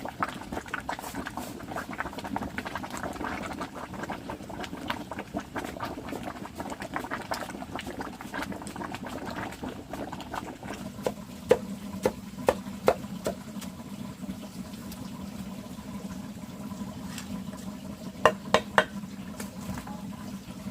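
Liquid bubbling steadily, with many small clicks throughout and a few sharp knocks about halfway through and again near the end.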